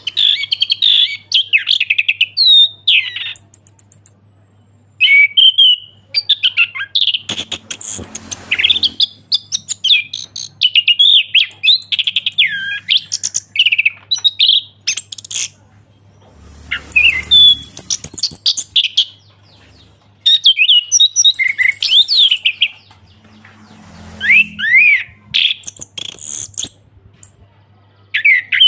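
Orange-headed thrush singing a loud, varied song of fast rising and falling whistled phrases separated by short pauses. Twice there is a brief noisy rustle, over a faint steady hum.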